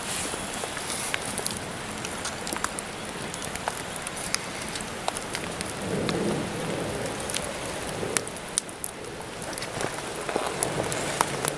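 Steady rain hiss with many sharp separate ticks of drops landing on nearby surfaces, and a soft louder rush about six seconds in.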